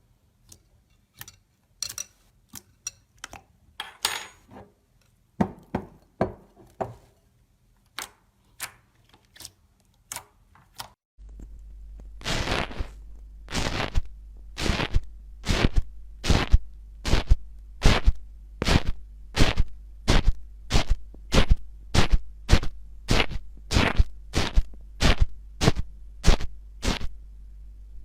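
Slime being handled by hand: scattered small clicks at first, then, after a cut about eleven seconds in, a regular run of sharp clicking pops about twice a second over a low steady hum.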